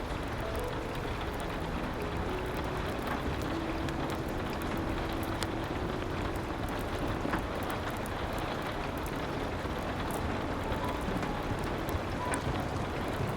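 Steady rain with scattered sharp clicks throughout, and a few faint held notes drifting in the first few seconds and again later on.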